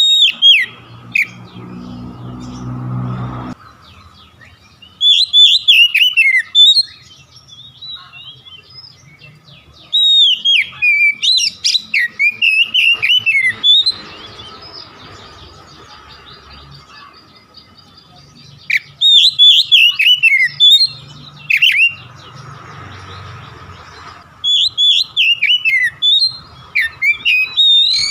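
Oriental magpie-robin singing in bouts of fast, varied chirps and whistles, about five phrases separated by pauses of a few seconds.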